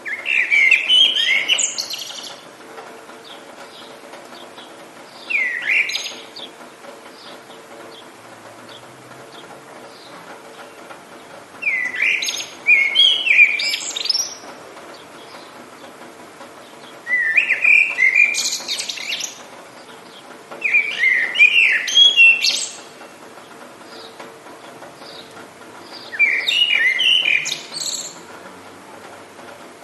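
A songbird singing in short phrases of quick, gliding whistled notes, about six phrases a few seconds apart, over a faint steady hiss.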